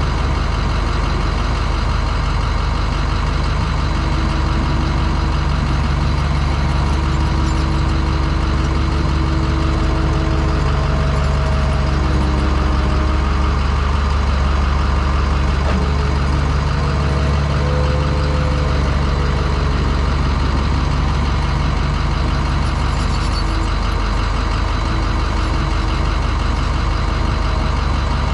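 The International 4200 dump truck's VT365 V8 turbodiesel runs steadily with a constant low drone, while a few faint tones come and go in the middle.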